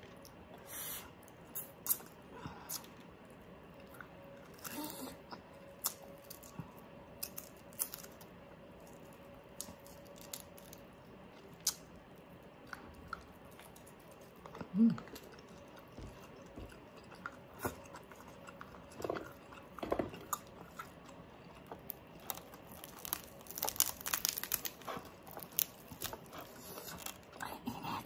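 Close-miked eating of crispy pata: chewing with sharp crunches of the crackling pork skin scattered through, coming thicker near the end.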